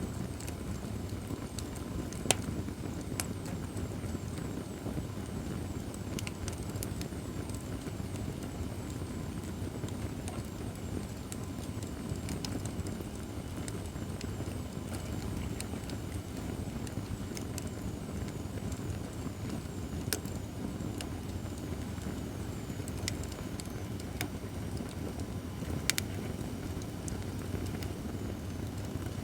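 Acacia firewood burning in a fire pit: a steady low rumble of flame with scattered sharp crackles and pops, and a few louder snaps.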